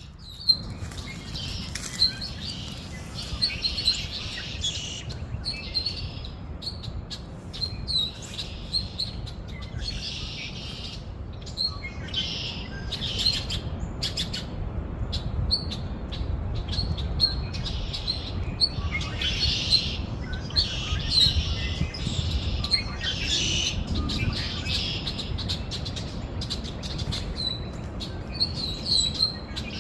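Small birds chirping in repeated bursts of quick high-pitched chirps, a new burst every second or two, over a low steady rumble.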